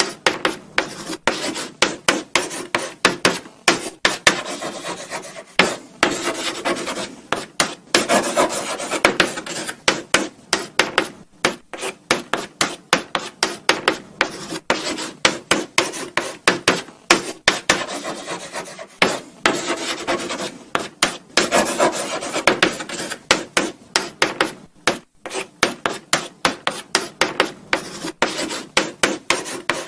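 Chalk writing on a blackboard: a steady run of short scratchy strokes, several a second, with brief pauses between words.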